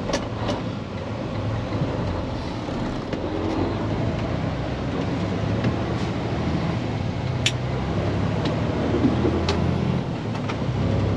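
Diesel truck engine running steadily with road noise, heard from inside the cab, with a few sharp clicks.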